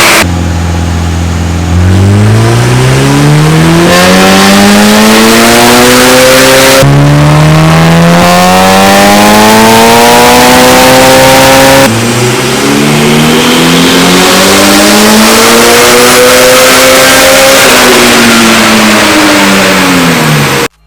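Turbocharged Honda B18 four-cylinder engine in a DC2 Integra accelerating hard, its pitch climbing and levelling off in three runs that cut abruptly about seven and twelve seconds in. In the last run the revs rise and then fall away near the end.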